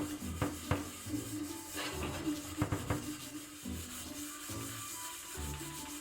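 Repeated rubbing, scrubbing strokes by hand, several short scratchy strokes in the first half, over soft background music with held notes.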